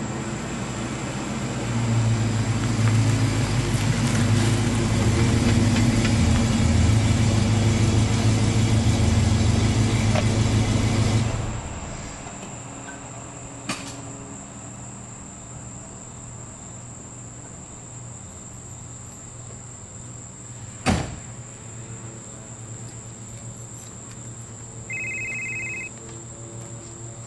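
Car engine running steadily, then shut off abruptly about eleven seconds in. Afterwards a click, a single sharp thump and a short electronic beep.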